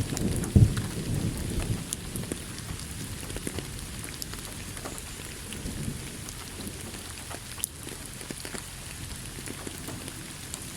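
Thunderstorm: a roll of thunder rumbles loudly in the first two seconds and fades, leaving steady rain with scattered drops pattering on a surface.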